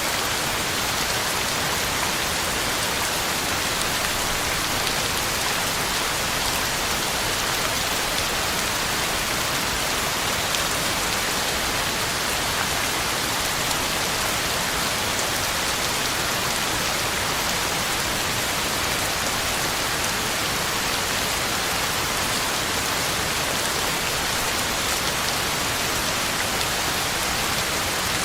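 Heavy rain falling steadily, drops pattering on the ground and leaves.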